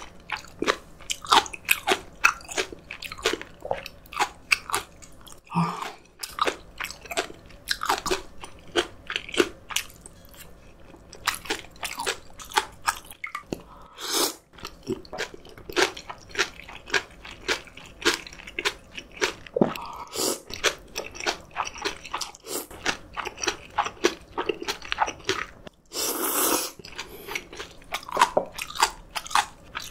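Close-miked chewing of crunchy food, a steady run of crisp crunches and wet mouth clicks. A noodle slurp about halfway through and a longer slurp a few seconds before the end.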